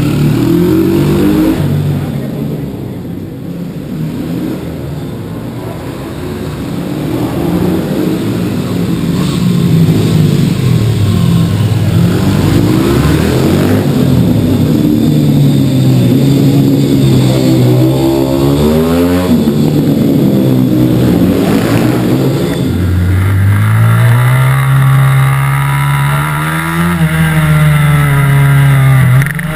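Mini-motard (small supermoto motorcycle) engine heard from on board, revving up and down as it is ridden round the track, its pitch rising and falling with the throttle. About three-quarters of the way in the pitch steps up sharply and then climbs and falls again.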